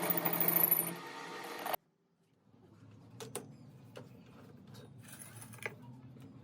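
Metalworking shop machinery: a loud machine noise with a high ringing edge that cuts off abruptly, then after a brief silence a low steady hum with scattered metal clicks and clanks.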